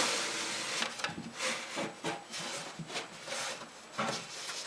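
A pegboard panel scraping and rubbing against wood as it is worked into glued slots in a plywood cart: a steady scrape at first, then a run of short, irregular scrapes.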